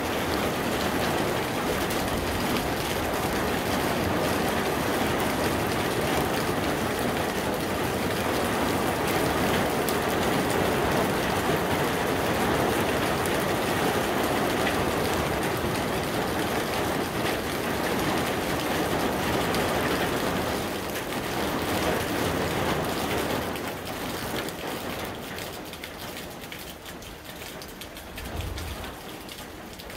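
Steady heavy rain falling, easing off noticeably after about twenty seconds as the thunderstorm passes.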